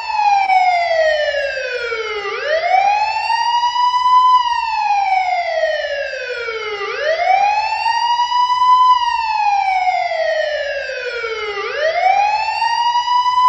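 Electronic police-style siren in a slow wail: its pitch slides down over about two seconds, then sweeps back up, repeating about every four and a half seconds.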